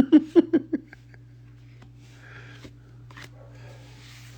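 A quick run of short voice sounds in the first second, then Pokémon trading cards being handled and slid against each other with a soft rustle.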